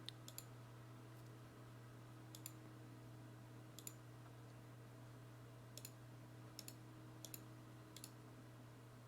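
Faint clicks of a computer mouse, about seven single and paired clicks spaced a second or so apart, over a low steady electrical hum.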